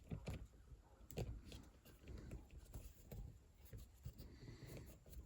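Faint, scattered light clicks, taps and rustling over a low background rumble, like small handling noises.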